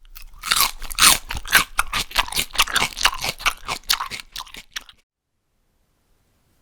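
Close-up crunching as crispy fried food is bitten and chewed: rapid, dense crunches that stop abruptly about five seconds in.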